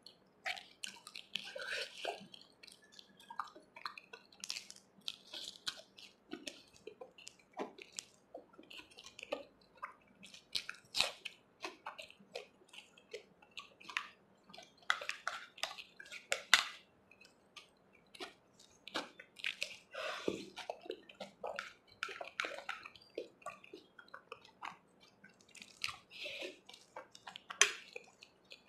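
Close-miked chewing and wet mouth sounds of someone eating chole (spiced chickpea curry) with puri, made up of many small irregular smacks and clicks.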